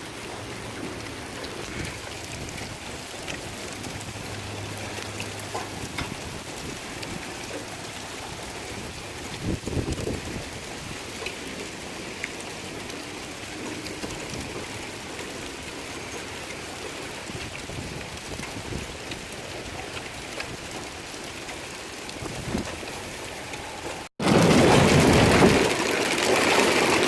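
Heavy rain with hail mixed in, falling steadily with scattered sharp ticks of hailstones. After a brief break near the end it comes back much louder and denser.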